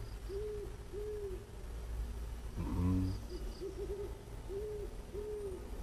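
A bird hooting: soft, low arched hoots of about half a second each, mostly in pairs, with one quavering note. A brief murmured voice comes in about three seconds in.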